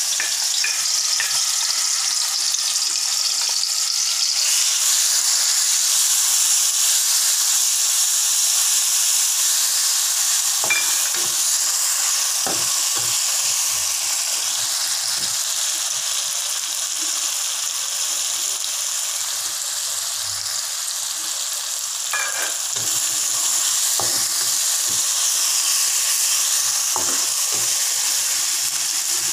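Ground chilli and belacan paste sizzling steadily in hot oil in a metal wok, stirred with a spatula that scrapes and taps against the pan now and then.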